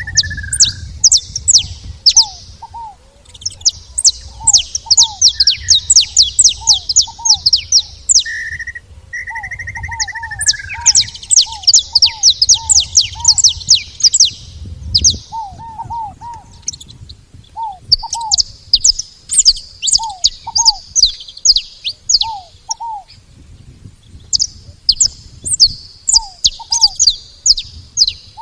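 Saffron finches chattering at a feeding spot in fast, high trilled chirp series of a few seconds each. Short lower call notes falling in pitch repeat underneath.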